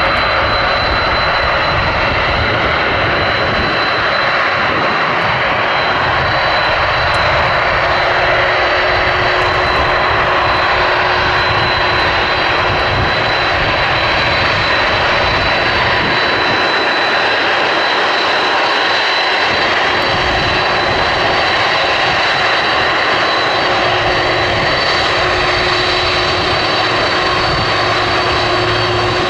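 Jet airliner engines running loud and steady: a wide rush of noise with a high, steady whine on top.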